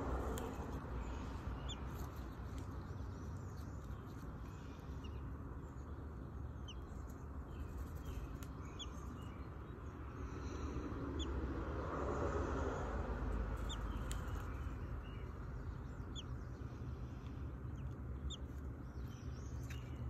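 Faint outdoor background of short, high bird chirps, scattered about one or two a second, over a steady low rumble.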